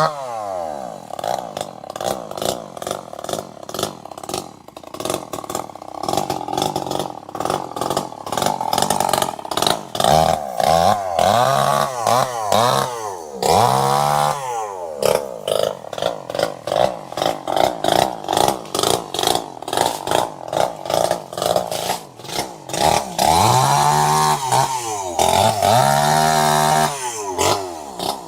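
Two-stroke chainsaw engine being throttled up and down. It falls to a lower, choppier run just after the start, then surges back up several times, holds at high revs, and near the end goes through a run of quick throttle blips, each rising and falling in pitch.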